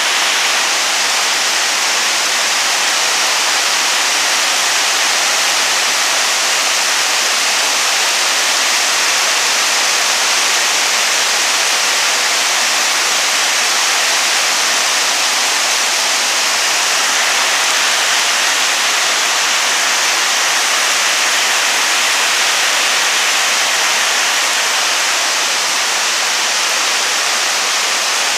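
Heavy tropical downpour: a steady, loud hiss of rain pouring down with water already pooling over the road, which is deafening in person.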